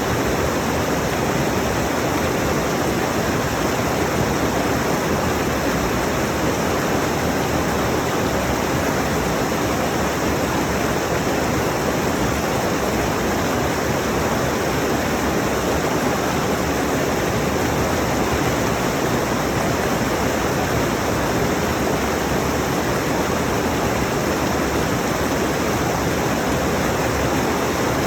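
Rushing mountain stream: a steady, even roar of water over rocks.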